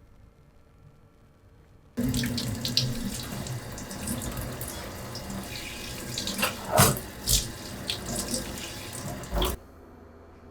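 Kitchen tap running water into a sink, with several louder splashes and knocks in the second half as something is rinsed. It starts abruptly about two seconds in and cuts off sharply near the end.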